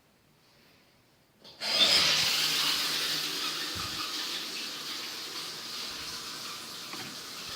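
A loud rasping, hissing noise starts suddenly about a second and a half in, then slowly fades while it goes on.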